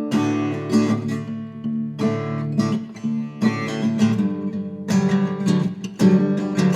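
Guitar playing the slow instrumental intro of a blues ballad: picked chords and single notes with sharp attacks over a steady low bass line.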